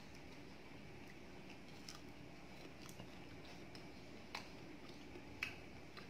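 Faint chewing of ripe mango, with a couple of soft clicks about four and five seconds in as fingers pick pieces from the plate.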